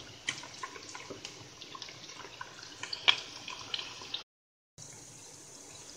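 Pieces of suckling pig frying in plenty of hot olive oil in a frying pan: a steady sizzle with many small crackles and pops. The sound cuts out completely for about half a second after four seconds.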